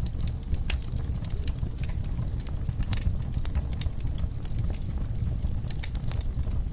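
Wood fire in a fireplace, burning with a steady low rumble and irregular sharp crackles and pops.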